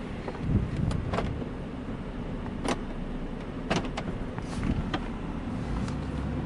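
Steady low rumble of a car, with a series of sharp clicks and knocks scattered through it.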